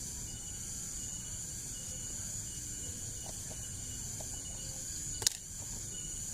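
Steady high-pitched chirring of crickets or other insects in the background, with a single sharp click about five seconds in.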